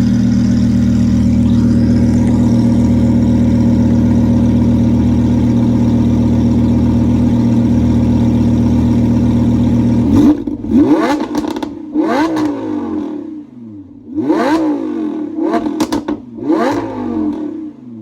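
Audi R8's 5.2-litre V10 with a titanium exhaust, running at a steady raised speed for about ten seconds. It then gives four sharp free revs, each rising quickly and falling back.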